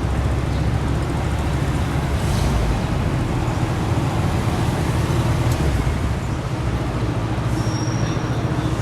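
Steady road-traffic noise: a low rumble of car engines and tyres. A brief high-pitched tone sounds near the end.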